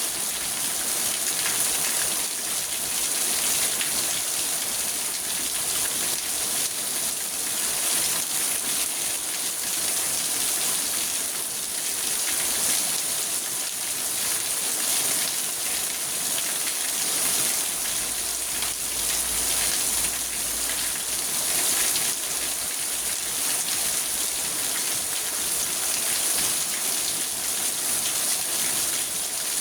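Steady rain falling on a car, heard from inside the cabin: an even patter and hiss of drops on the roof and glass.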